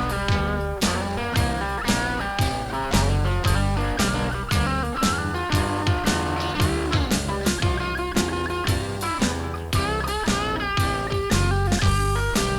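Blues-rock band playing an instrumental break: a guitar lead with bent, sliding notes over bass and a steady drum beat, with no singing.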